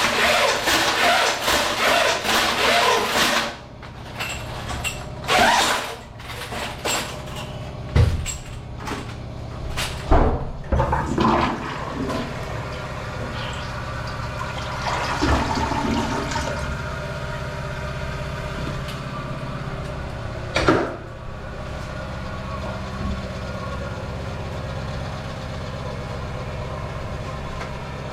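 Toilet being cleared with a hand-cranked spring drain auger: a dense scraping rub for the first few seconds, then several sharp knocks as the spring works in the bowl, then a toilet flush and steady running water with a low hum.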